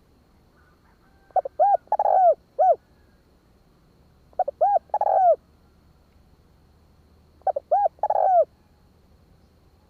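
Spotted dove cooing in three phrases about three seconds apart. Each phrase is a couple of quick, arched coos running into a longer, louder coo; the first phrase ends with one more short coo.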